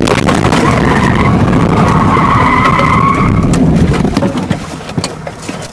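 Car tyres skidding with a loud squeal for about four seconds during a collision, then fading into scattered clicks and rattles.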